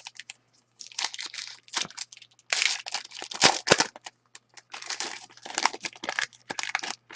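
A trading-card pack's plastic wrapper being torn open and crinkled, with cards handled in a string of uneven rustling bursts.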